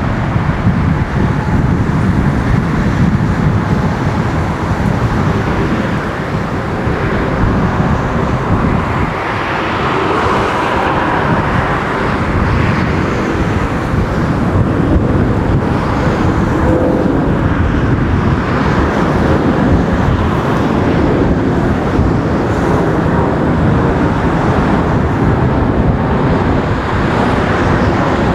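Jet engine noise from a Lufthansa Airbus A350-900's Rolls-Royce Trent XWB engines: a loud, steady rumble and rush that swells a little partway through.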